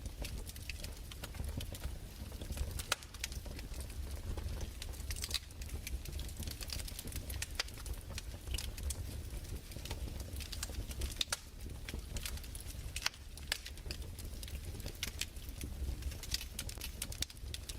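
Fireplace crackling: irregular pops and snaps over a steady low rumble.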